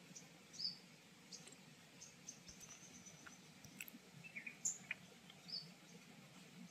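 Faint, scattered high chirps of small birds in the background, a short call every second or so.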